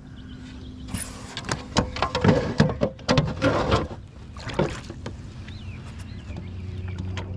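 A quick run of knocks and clatter against a plastic fishing kayak's hull and gear, thickest between about one and four seconds in, with one more knock a little later.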